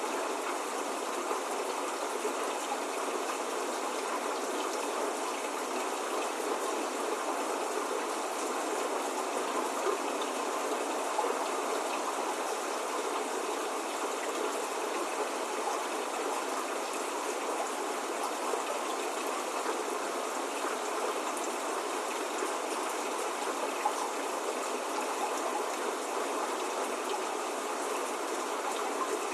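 Steady rain falling, a constant even hiss with faint scattered drop ticks and no thunder.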